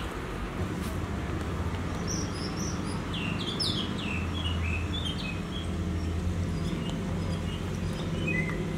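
Small birds chirping in quick, short calls, in a flurry about two seconds in and a few more near the end, over a steady low hum.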